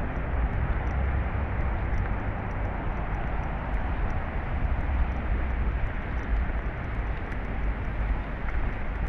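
Steady outdoor background rumble: an even noise with a strong low rumble.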